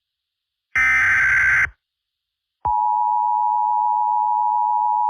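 An Emergency Alert System broadcast: a one-second SAME header data burst, then a second of silence, then the steady two-tone EAS attention signal near 1 kHz starts about 2.7 s in and holds. The attention signal marks an emergency announcement about to follow.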